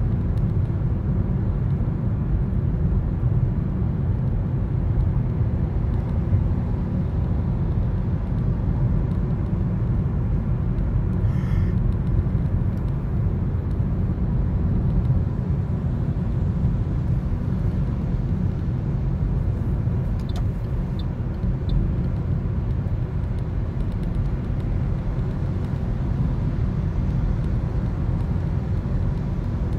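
Steady low road and engine rumble inside a moving Toyota Corolla, picked up by the dashcam's microphone.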